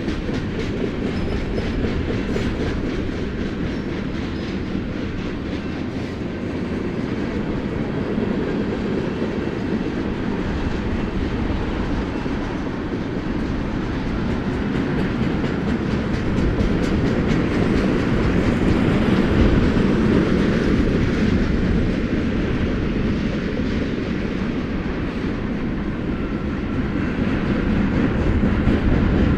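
Cars of a BNSF freight train rolling past: a steady rumble with continuous wheel clickety-clack, swelling in loudness about two-thirds of the way through.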